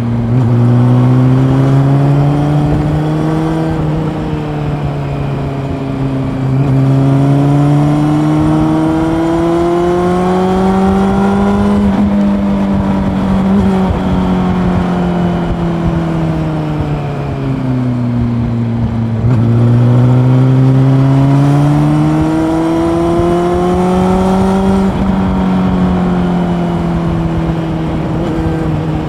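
Honda CB400 Super Four's inline-four engine under way, its pitch climbing with the throttle, dropping sharply once about four seconds in like an upshift, then easing down and pulling up again twice as the rider rolls off and back on.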